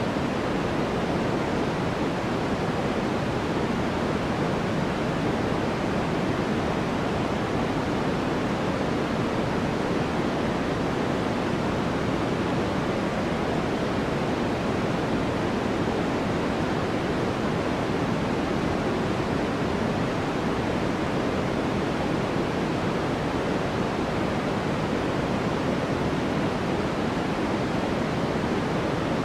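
Steady white-noise track: an even, unchanging hiss-like rush, fuller in the low-middle range, with no breaks or separate sounds.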